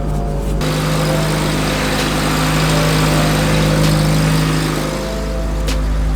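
1987 Toyota 4Runner running on the move: a steady engine hum with broad road and wind noise that comes in sharply about half a second in and eases near the end, under light background music.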